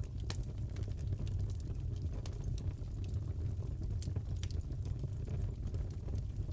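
Crackling fireplace: a steady low rumble of the fire with irregular small pops and snaps scattered throughout.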